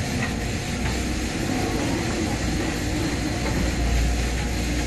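Excavator engine running steadily as the machine works, a continuous deep rumble.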